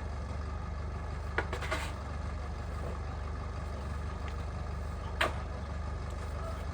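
A steady low engine hum, with three short knocks: two close together about a second and a half in, and one louder one about five seconds in.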